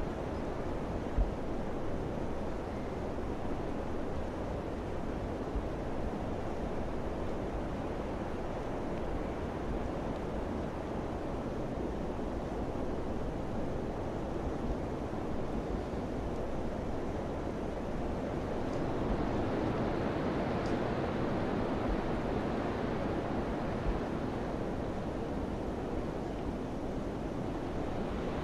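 Steady rushing summer wind, swelling stronger about two-thirds of the way through, with a few faint low thumps of gusts against the microphone.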